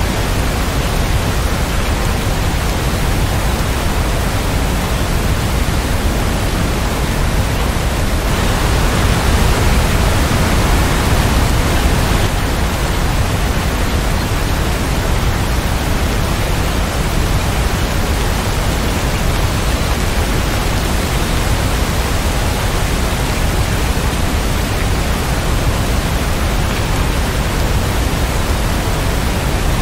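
Steady, even rain noise with a deep low rumble under it, swelling a little louder for a few seconds about eight seconds in.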